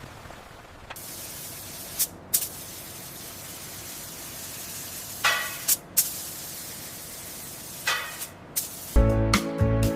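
High-pressure spray hissing steadily, with several sharp clicks and knocks over it. Music with a strong beat cuts in near the end.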